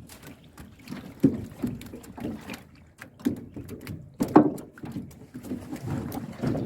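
Irregular knocks and bumps on a small wooden fishing boat, from handling fish traps and the catch.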